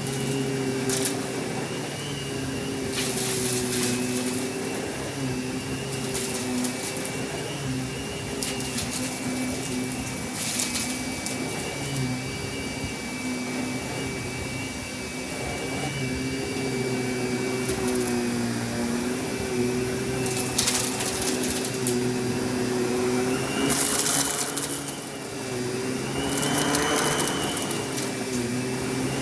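Kenmore canister vacuum cleaner running steadily, its motor hum wavering slightly in pitch, with short hissing rushes of air every few seconds as the nozzle is worked.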